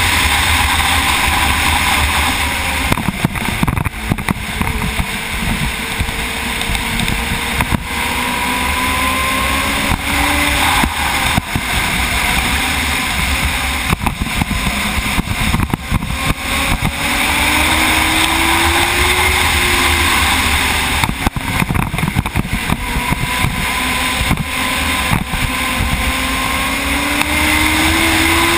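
Race motorcycle's engine at high revs, heard from an onboard camera over a heavy rush of wind. The engine note rises and falls several times as the bike accelerates and backs off, climbing steadily over the last several seconds.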